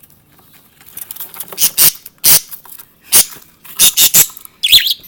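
Budgerigars giving a run of short, loud, harsh chirps starting about a second in, with a quick pitched chirp near the end.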